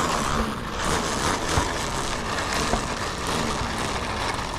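Radio-control model airplane's motor running steadily as the plane taxis out for takeoff.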